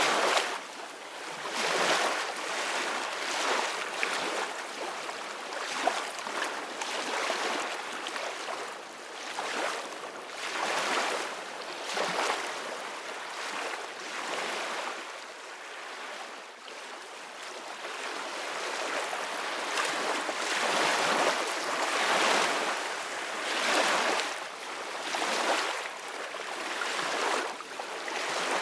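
Ocean waves washing in, the hiss of the water swelling and fading every couple of seconds.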